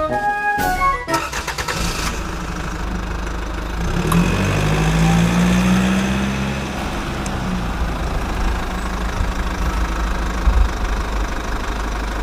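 Small engine running steadily. About four seconds in its pitch rises a little, then eases back down a few seconds later.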